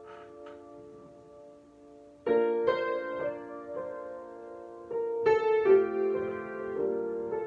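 Solo piano improvising: a soft held chord dies away, then new chords are struck about two seconds in and again past the middle, each ringing on as further notes change.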